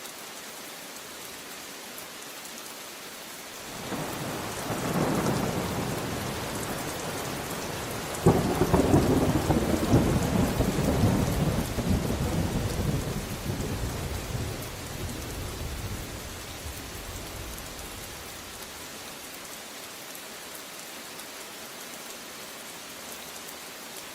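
Steady rain falling, with a roll of thunder that builds about four seconds in, breaks into a sharp crack about eight seconds in, then rumbles and fades away over the next ten seconds.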